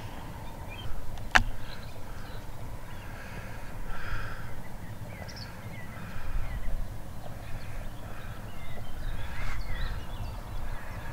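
Birds calling: several louder calls a few seconds apart, with short chirps between them, over a low steady rumble. One sharp click about a second and a half in.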